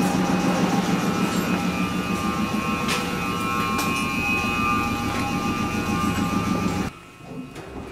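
Steady hum and whine of an Iyotetsu 700 series electric train standing at the platform with its doors open, dropping suddenly much quieter about seven seconds in.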